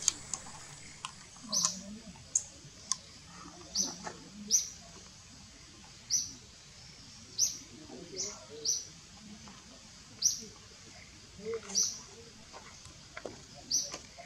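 A small bird giving short, high chirps, roughly one a second at irregular intervals.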